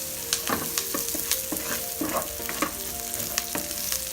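Garlic, ginger, onion and bay leaf sautéing in hot oil with a steady sizzle. A wooden spoon stirs them, scraping and knocking against the pan a dozen or so times at an irregular pace.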